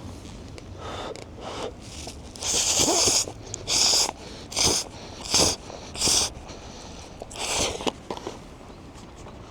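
Someone slurping noodles, in about six short, loud, hissy slurps, between quieter chewing.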